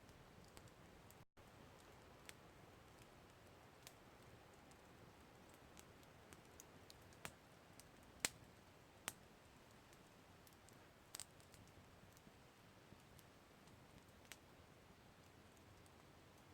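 Campfire crackling faintly: scattered sharp pops and snaps over a low steady hiss, the loudest pop about eight seconds in.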